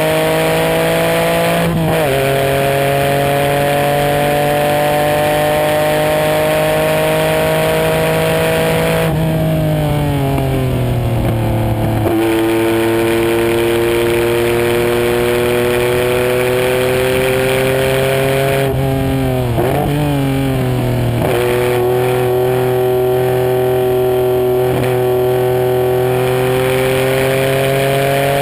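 Car engine pulling hard around a racetrack, revs climbing slowly through long stretches, with an upshift about two seconds in. Twice the revs fall away under braking and then jump up again on a downshift, over steady wind and tyre noise.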